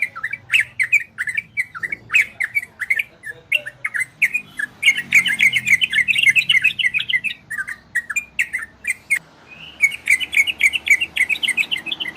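Yellow-vented bulbul (trucukan) singing a fast, rapid-fire run of short chattering notes, with brief breaks about four seconds in and again around nine seconds.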